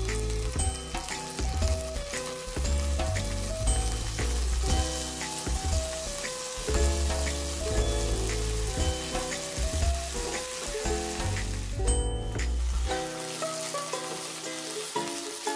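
Whole prawns sizzling as they fry in hot oil in a pan. A background music track with a melody and bass plays over the sizzling.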